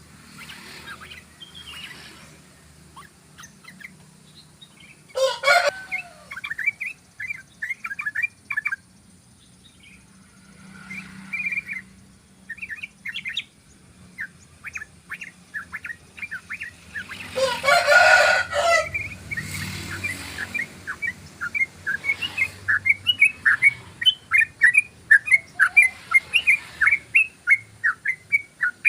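Yellow-vented bulbul (trucukan) singing its long rolling 'ropel' song: strings of short, quick notes that run together into a fast, even run of about three or four notes a second in the second half. A louder, coarser sound breaks in briefly about five seconds in and again for a second or two around eighteen seconds.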